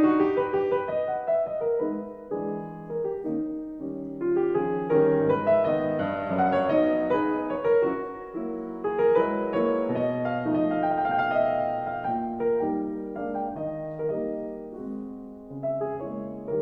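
Background piano music: a slow melody with chords.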